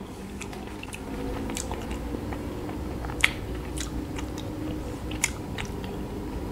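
Close-up mouth sounds of chewing a mouthful of chocolate-coated ice cream bar: scattered wet clicks and small crunches, with two sharper clicks about two seconds apart in the middle.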